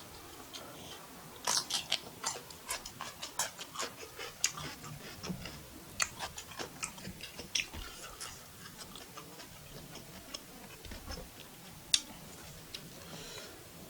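Close-miked eating sounds of fried rice being chewed: a run of quick, irregular, crisp clicks and smacks, busiest in the first half, with one sharp click about twelve seconds in.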